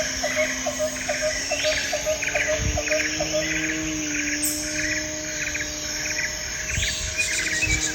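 Insects chirping in quick rhythmic pulses, over a steady low hum that drifts slowly in pitch.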